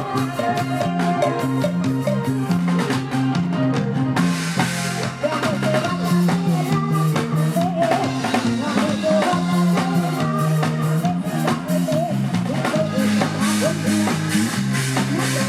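Live band playing a Thai Isan pop song: drum kit with rimshots, a stepping bass line and electric guitar, at a steady loud level.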